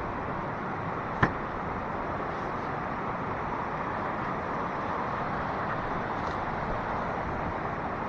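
Steady, even rushing of flowing river water, with one short sharp click about a second in.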